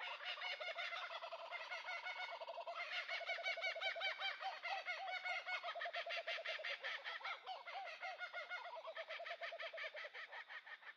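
Birds calling in a dense run of rapid, overlapping calls that fade away near the end.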